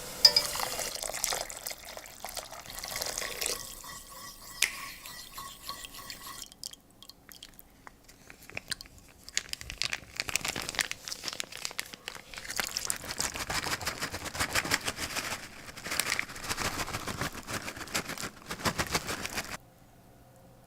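Kitchen handling sounds while instant ramen is prepared: dense, irregular crunching and crackling that stops abruptly near the end.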